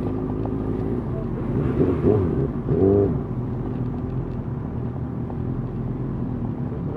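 Motorcycle engine running steadily at low revs. About two and three seconds in come two brief louder sounds that rise and fall in pitch.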